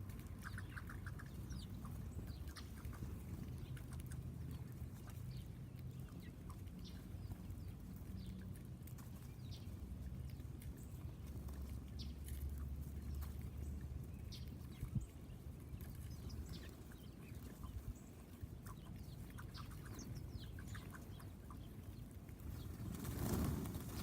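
Backyard songbirds chirping and calling in short, scattered notes over a steady low rumble, with a single knock about fifteen seconds in and a brief rushing sound near the end.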